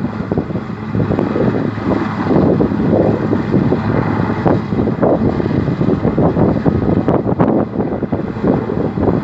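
Wind buffeting the microphone: a loud, unsteady rumble that rises and falls in quick gusts.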